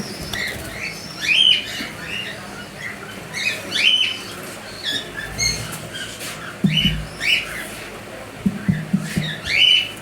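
Birds squawking in short, sharp, repeated calls that come in clusters throughout, with a few low, brief sounds in the second half.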